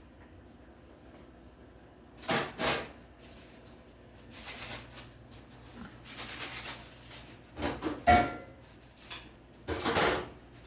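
Hard objects being handled: a series of scrapes and knocks, with one sharp clank that rings briefly about eight seconds in.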